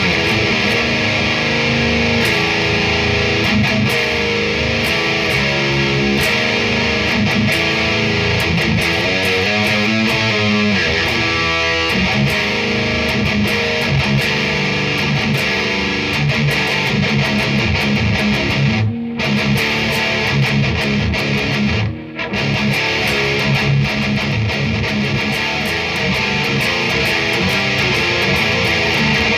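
Distorted electric guitar playing heavy riffs through an amp on an overdrive-pedal demo. The playing runs on steadily, breaking off briefly twice about two-thirds of the way in.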